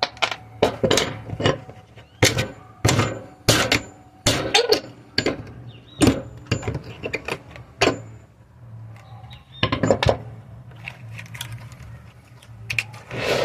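A run of irregular sharp knocks and clatters of hand work on wood, about one or two a second, over a steady low hum.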